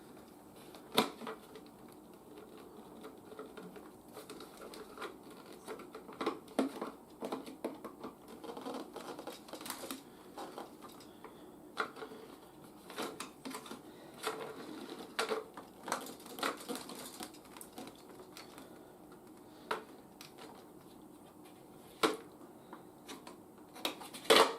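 Hands handling a plastic toy jet: scattered light clicks, taps and rustles at irregular intervals, with a few sharper clicks near the end.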